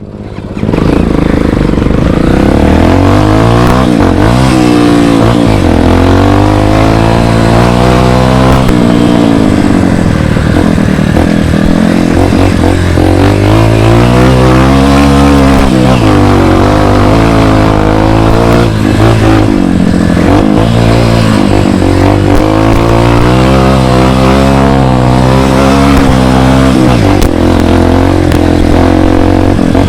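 Dirt bike engine being ridden hard on a trail, revving up and easing off again and again, its pitch rising and falling with the throttle.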